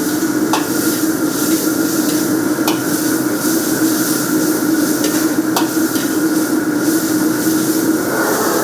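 Food frying and sizzling in a kitchen over a steady mechanical hum, with a few sharp clicks of utensils about a second, three seconds and five and a half seconds in.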